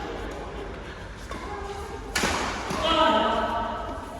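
Badminton racket striking a shuttlecock: a single sharp crack about two seconds in, echoing in a large sports hall, followed by voices or shoe squeaks on the court.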